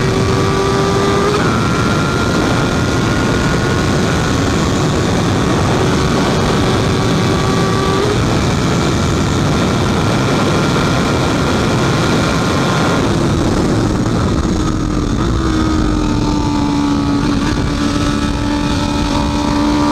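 Honda CB650F's inline-four engine running at speed under a loud, steady rush of noise, its pitch climbing slowly with steps between gears, then dropping about thirteen seconds in and holding lower as the bike slows.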